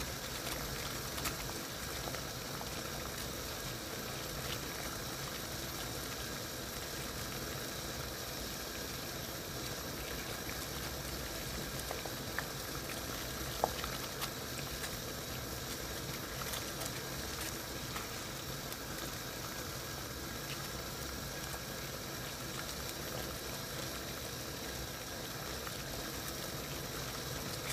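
Water boiling in a saucepan: a steady bubbling with a few small pops.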